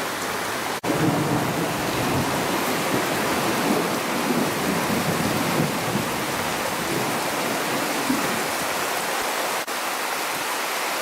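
Heavy rain pouring down in a thunderstorm, a steady, even rush of noise. It cuts out for an instant twice, about a second in and near the end.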